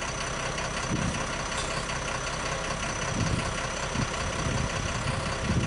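An engine idling steadily, with a few soft low knocks over it.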